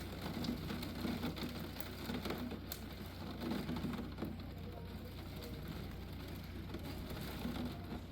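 Hurricane rain and wind heard from inside a house: a steady wash of heavy rain with gusts swelling a few times, mostly in the first half, and scattered sharp taps.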